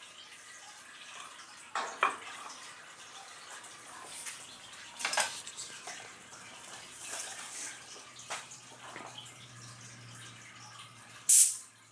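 Water lapping with a few light clinks at a hydrographic dip tank, then a short hiss of an activator spray gun near the end.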